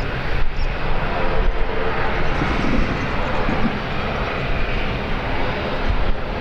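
Airliner engines running: a steady, loud rush with faint engine tones through it.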